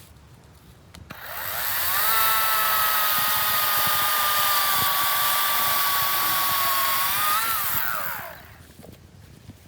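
EGO 56-volt battery chainsaw's electric motor spinning up about a second in, running at speed with a steady whine whose pitch sags slightly, then winding down near the end.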